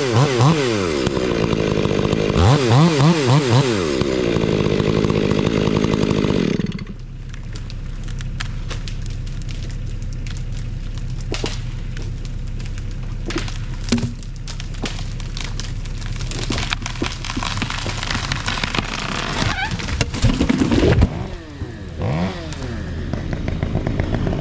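Chainsaw revving hard under load for about six seconds, then dropping suddenly to a quieter idle with scattered clicks, and revving up and down briefly near the end.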